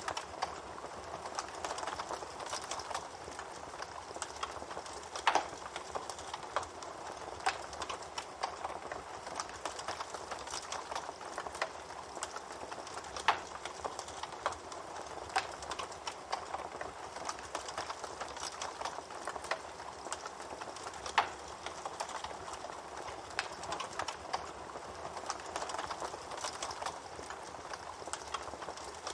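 Campfire burning: a steady hiss of flames with irregular crackles throughout and a few louder, sharp pops, the loudest about five, thirteen and twenty-one seconds in.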